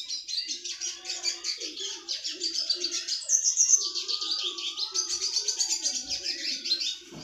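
A small songbird sings a fast, unbroken run of high, rapid chirps and trills, with fainter lower warbling notes underneath. This dense song, the bird called 'retsiski', is played as a tutor recording (masteran) for training caged songbirds to sing a tight, rapid song.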